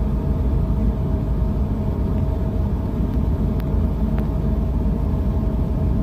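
Ship's engine running: a steady low rumble with a faint steady hum above it, and two faint ticks a little past the middle.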